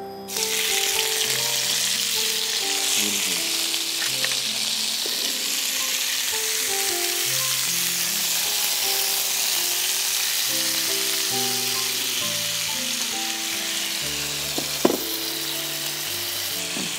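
Teriyaki-marinated beef skewers with pineapple, onion and capsicum sizzling in hot oil in a frying pan. The sizzle starts suddenly about half a second in, as the skewers go into the pan, and then runs on steadily, with a couple of light utensil clicks and soft background music beneath.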